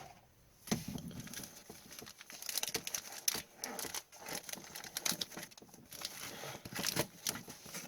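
Plastic trading-card packaging crinkling and tearing as packs are opened by hand, a quick irregular run of crackles that starts about a second in.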